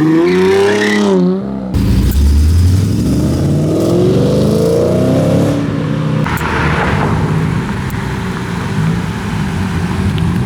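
Chevrolet Corvette C7 ZR1's supercharged V8 accelerating hard, its pitch climbing, with an upshift break about two seconds in and a second climb. About six seconds in it eases off into a steadier, lower drone.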